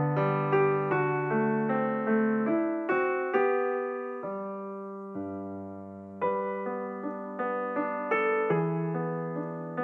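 Background music: a gentle piano melody over sustained chords, notes struck and left to fade, with a slower held passage about halfway through.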